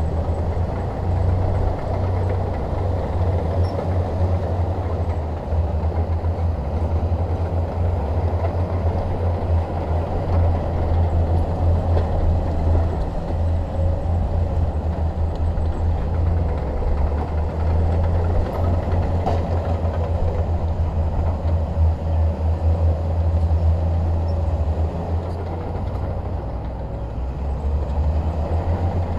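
Crawler bulldozer at work: its diesel engine running steadily with a deep drone and a fast rattle.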